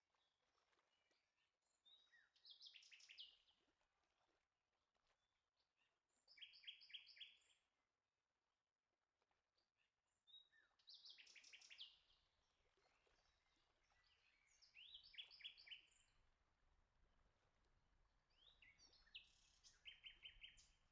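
Faint bird song: short, rapid phrases of high repeated notes, each about a second long, coming every few seconds.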